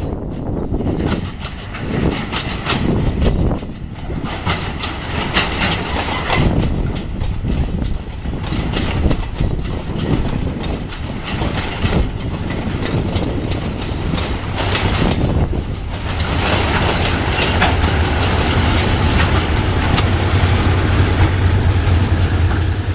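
A train running on the tracks: wheels clicking repeatedly over rail joints over a steady rumble, with a low drone growing stronger in the second half.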